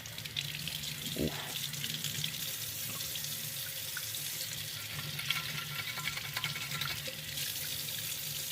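Water running steadily while a clogged boiler pipe fitting is cleaned out.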